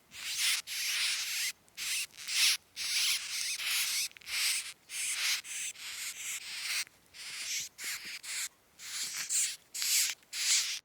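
Recorded mouse sound: a run of short, scratchy, hissy high-pitched bursts with brief gaps between them, ending abruptly.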